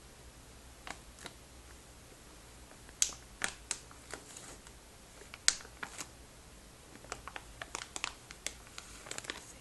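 Curtain rings clicking against each other in irregular, sharp clicks. Two louder clicks come about 3 and 5.5 seconds in, and a quicker run of small clicks comes near the end.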